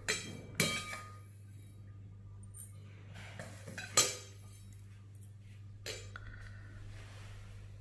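A few light clinks of small dishes and utensils as whole spices are portioned out. The loudest come about half a second in and about four seconds in, each with a brief ring.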